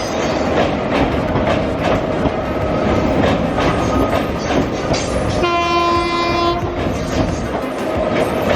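A train running along the line with a steady rumble and rhythmic clacking of wheels over rail joints. Its horn sounds once for a bit over a second, just past the middle.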